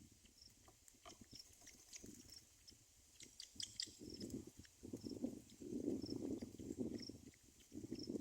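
Rustling at a bird's nest, louder in the second half, with a short high peep repeating about once a second and a brief burst of high chirps in the middle.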